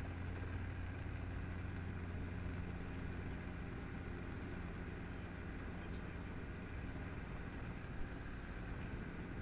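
Helicopter engine and rotor running steadily, a constant low drone.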